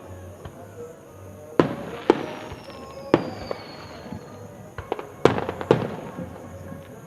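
Aerial fireworks going off: five sharp booms in quick succession, each with a ringing tail, and smaller pops and crackles between them. A faint falling whistle sounds in the middle.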